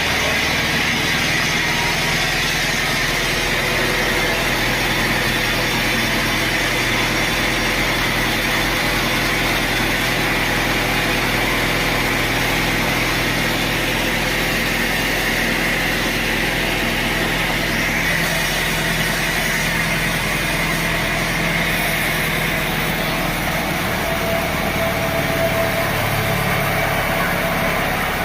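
Sawmill machinery running steadily: a continuous engine-like hum with no breaks.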